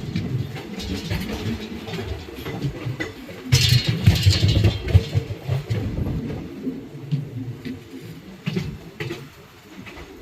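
Low, uneven rumble of a moving passenger train, with a burst of hiss about three and a half seconds in, easing off toward the end.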